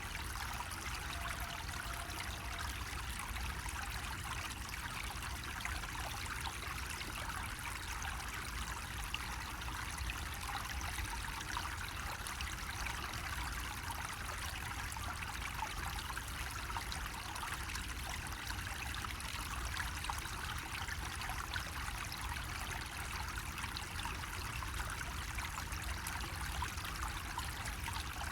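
Water running steadily from a bamboo spout, an even, unbroken trickling splash, with a low steady rumble underneath.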